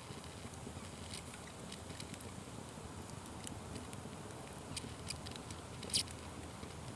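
Wood fire crackling, with scattered sharp pops, the loudest about six seconds in, over a low steady rumble.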